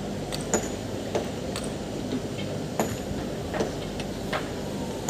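Irregular sharp metal clicks and knocks, about one or two a second, from hand tools working on a diesel engine's fuel injector nozzles, over a steady background hum.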